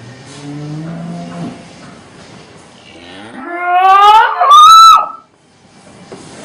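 A cow calling: first a low moo, then a much louder bellow that rises steeply in pitch and breaks off abruptly about five seconds in.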